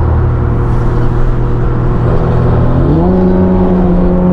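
Car engine running through a modified exhaust at a steady speed. About three seconds in it revs up quickly and holds at the higher engine speed.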